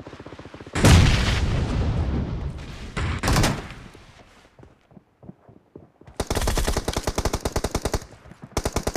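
Automatic gunfire in a first-person shooter video game: a loud burst about a second in, a lull around the middle, then long runs of rapid fire from about six seconds in.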